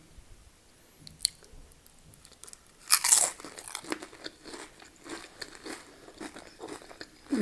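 Biting into a loaded tortilla chip nacho with a loud crunch about three seconds in, followed by steady crunchy chewing.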